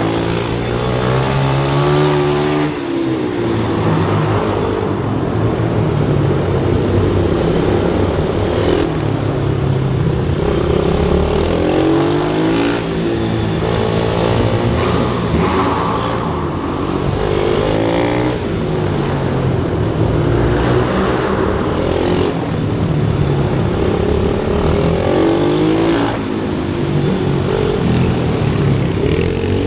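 Small single-cylinder pit bike engines on a race track, revving up hard and easing off again and again as they accelerate out of corners and back off into them.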